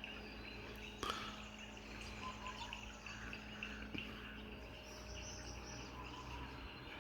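Faint outdoor ambience of birds chirping over a steady high drone of insects, with a light click about a second in.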